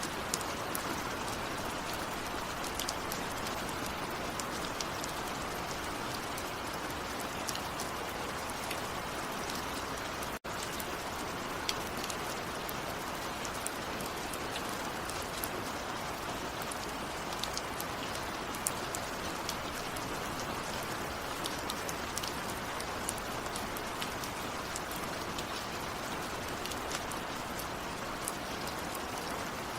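Steady rain falling on a surface, an even hiss dotted with many sharp individual drop ticks. About ten seconds in, the sound cuts out for a split second and then resumes.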